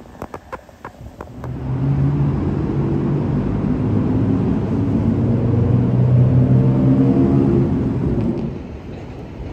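A motor vehicle's engine running close by: a steady pitched hum that swells in about a second and a half in and fades near the end, after a few sharp clicks at the start.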